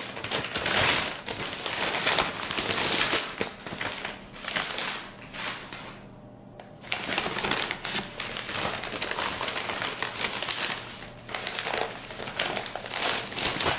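Shredded newspaper packing rustling and crinkling as a wrapped orchid is pulled out of its shipping box, with a short lull about halfway.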